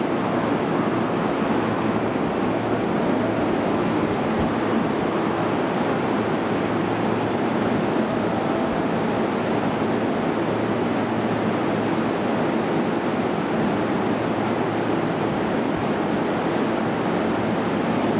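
Steady rushing roar of a Keio New Line commuter train in the underground station, with a faint low hum, holding even throughout.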